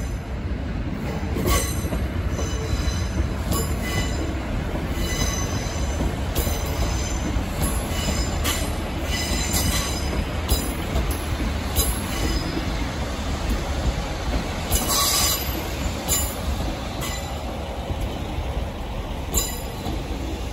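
Class 156 diesel multiple unit moving slowly over station pointwork. Under its steady low engine rumble, the wheels give irregular clicks and knocks across the rail joints and points. A brief wheel squeal comes about fifteen seconds in.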